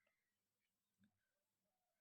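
Near silence: the audio is gated to almost nothing between spoken sentences.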